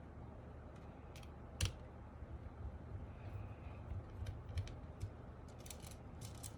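Scattered sharp plastic clicks from a mechanical keyboard being put back together, with its parts pressed into place, and a quick run of clicks near the end.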